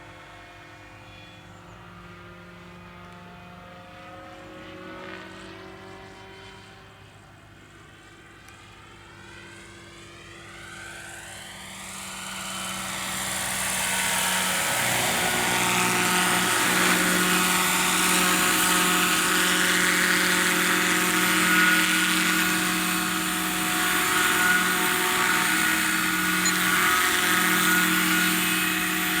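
Lockheed 286 helicopter in flight. It is fairly faint at first, with a sweeping, shifting tone as it moves. From about twelve seconds in it grows much louder as it comes close, then holds loud and steady with a rotor and engine whine.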